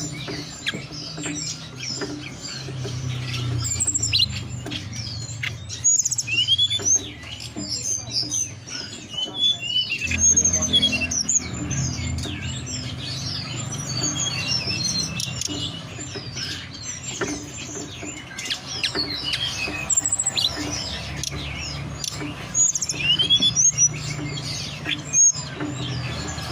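Recorded song of the tledekan gunung (hill blue flycatcher): rapid, continuous high chirps and short whistled phrases, over a steady low hum.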